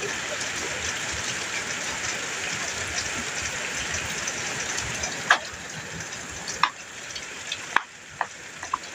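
Heavy rain on a metal roof, a steady hiss that eases about five seconds in. After that, separate loud drops strike the roof at irregular moments, several in a row.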